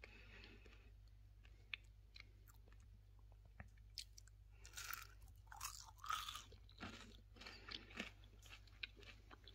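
Crisp fried zulbia being bitten into and chewed: faint crackly crunches, scattered at first and coming thickest and loudest in the middle.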